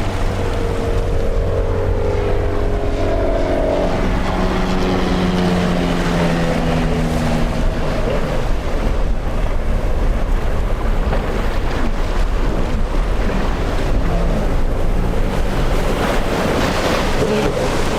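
Motorboat engines running, their pitch drifting slowly lower as they go by, over the wash of waves and wind buffeting the microphone.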